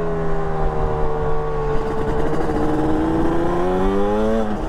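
Yamaha RD350 YPVS two-stroke parallel-twin running under way, heard from the rider's seat. The engine note holds steady, then rises over the last two seconds as the bike accelerates, and falls back right at the end.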